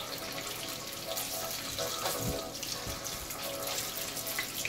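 Batter-coated chicken pieces sizzling in shallow oil in a frying pan, a steady hiss, with a couple of soft knocks about midway.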